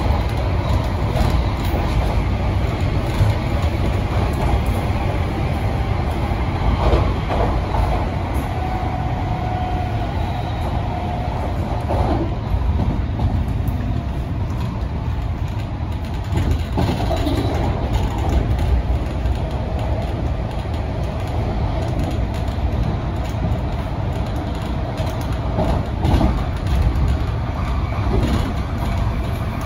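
MTR Tung Chung line A-train, an Adtranz-CAF electric multiple unit, running along the line: a steady low rumble of wheels on rail with a few short knocks. A faint thin whine comes in for a few seconds about eight seconds in.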